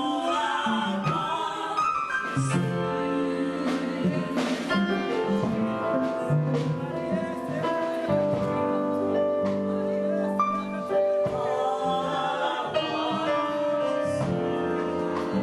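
Gospel music: singing over sustained instrumental chords, with a few sharp percussive strokes.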